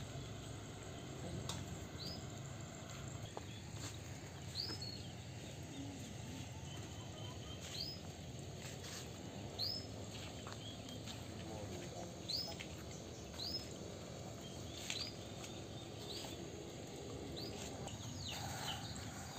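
A bird calling over and over with short, high chirps, one every one to three seconds, over a steady low background rumble.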